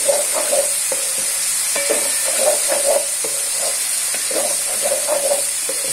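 Spice paste of onion, ginger-garlic, cumin and turmeric sizzling in hot oil in a pan while a wooden spatula stirs and scrapes through it in repeated short strokes. This is the masala being fried down (koshano) until the oil separates.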